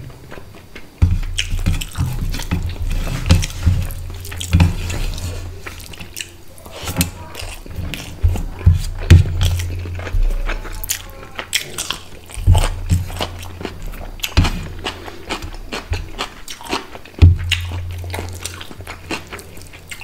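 Close-miked chewing of a mouthful of rice and fish curry: wet smacking and irregular small clicks from the mouth, with the rice squishing between the teeth.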